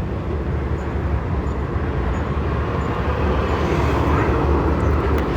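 Steady low rumble of road traffic, swelling a little toward the end as a vehicle goes past.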